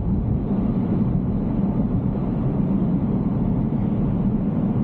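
Tesla Cybertruck driving along: a steady, low road and tyre rumble with no distinct events.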